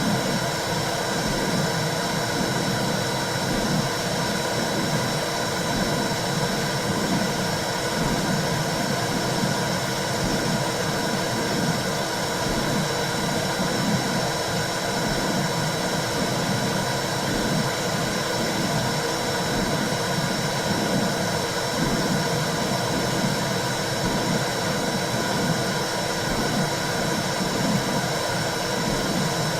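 Womb-sound white noise for calming a newborn: a steady rushing hiss with a low, rhythmic whooshing pulse about once a second.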